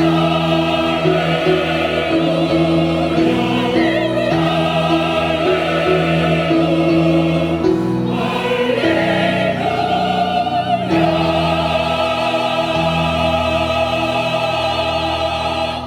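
Church choir singing a sacred anthem in full chords, ending on a long held chord with vibrato.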